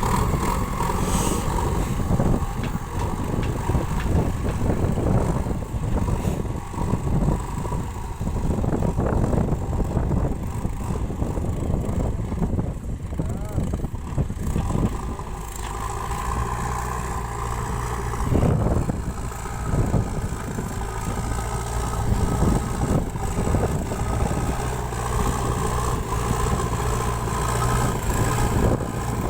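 JCB 3DX backhoe loader's diesel engine running throughout. Its note is uneven and changing for the first half, as if under varying load, and settles to a steadier, even note from about halfway through.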